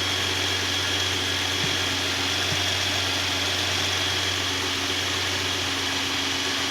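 Subaru six-cylinder engine idling steadily, running smoothly now that its misfires have been cured by new spark plugs and ignition coils.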